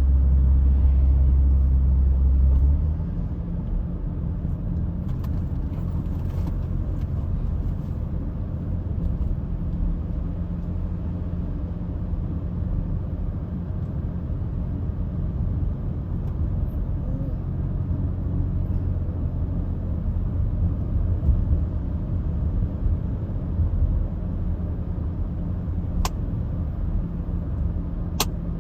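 Low, steady road and engine rumble heard inside a moving car, heavier for the first few seconds, then lighter and even. Two brief clicks come near the end.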